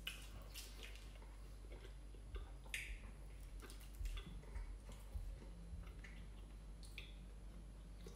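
Quiet chewing with wet mouth clicks and lip smacks while eating, a few sharper smacks standing out among them.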